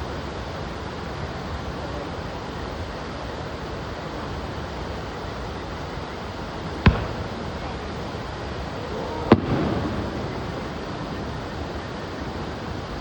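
Two firework bursts, the first about seven seconds in and the second about two and a half seconds later, the second trailing off over about a second. A steady rushing noise lies under both.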